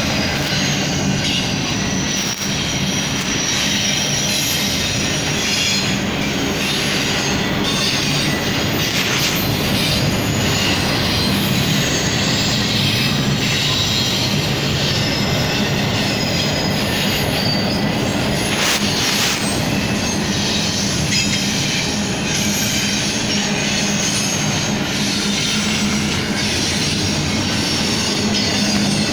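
Double-stack intermodal freight train rolling past at close range: a steady, loud rumble of wheels on rail, with high-pitched wheel squeal over it.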